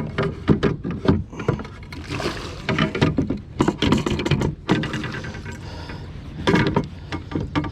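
Irregular knocks, clatter and rustling of gear and a fish being handled aboard a fishing kayak.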